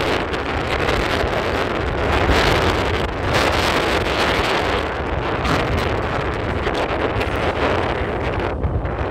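Loud wind buffeting the microphone: a rushing, gusting noise with a heavy low rumble that swells and eases.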